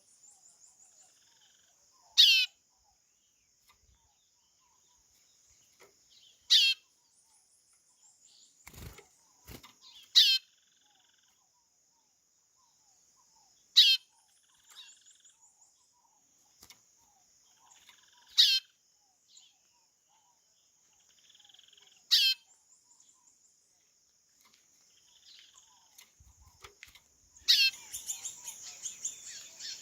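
White-bellied seedeater (chorão) giving a loud, brief falling whistle call, repeated seven times about every four seconds, over a steady high drone of insects.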